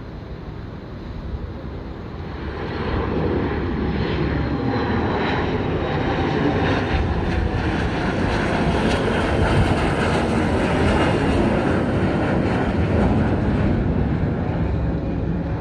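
Cirrus SR22 single-engine propeller plane, with its six-cylinder piston engine, coming in to land. The engine noise grows louder about two seconds in, holds strong through the middle with a slight falling pitch, and eases off near the end.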